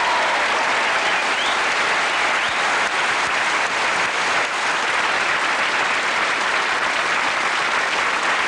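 Studio audience applauding steadily at the end of a pop song.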